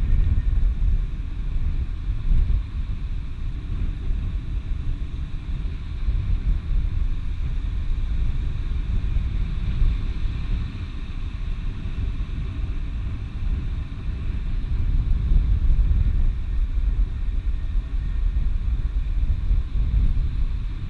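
Wind buffeting the microphone: a low, blustery rumble that swells and eases throughout.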